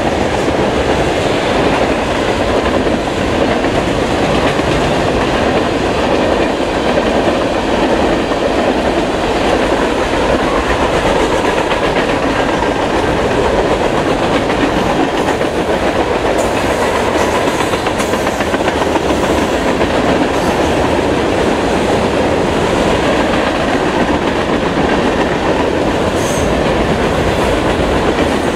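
Norfolk Southern freight train's tank cars and boxcars rolling past: a loud, steady rumble and clatter of steel wheels on the rails, with a few faint high clicks in the second half.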